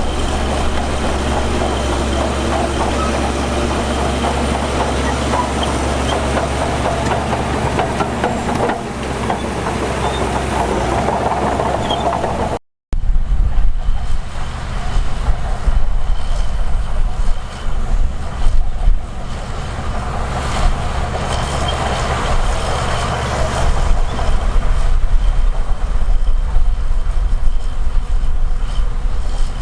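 Heavy diesel earthmoving machinery running steadily. After a sudden break a little under halfway through, a louder and more uneven engine sound follows.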